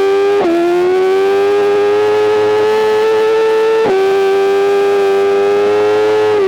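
BMW M 1000 RR's inline-four engine at high revs under full throttle, its pitch climbing steadily with two quick upshifts where the note dips sharply and picks up again, about half a second in and about four seconds in.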